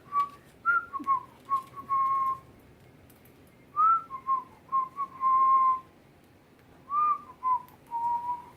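A person whistling a tune to pet cockatiels: three short melodic phrases of clear notes that slide between pitches, each ending on a held note.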